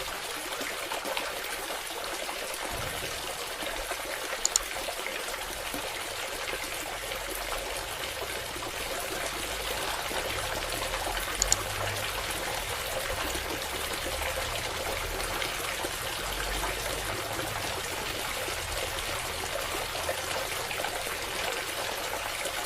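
Water trickling and pouring steadily, fed by a small submersible water pump, with two brief clicks partway through.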